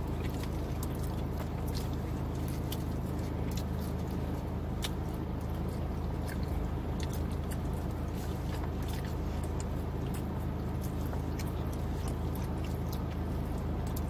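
A person chewing a mouthful of food close to the microphone, with many small wet mouth clicks and smacks, over a steady low hum.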